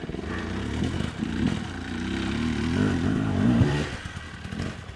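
Dirt bike engine revving up and down under throttle on a trail, then dropping off about four seconds in.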